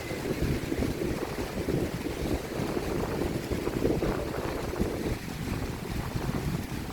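Strong wind buffeting the microphone, a gusty low rumble that rises and falls without a break.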